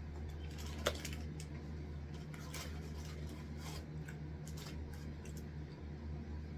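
Eating noises: scattered small clicks and crackles from chewing and handling food, the sharpest about a second in, over a steady low hum.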